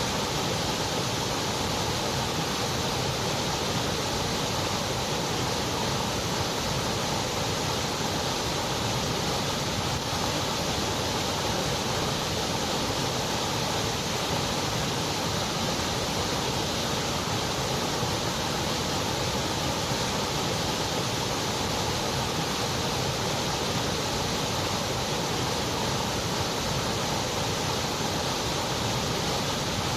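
Continuous white noise: an even, unchanging hiss with no rhythm or variation.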